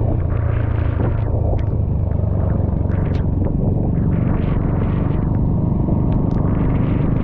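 Motorbike underway: a steady, heavy low rumble of engine and wind on the microphone, with scattered short ticks.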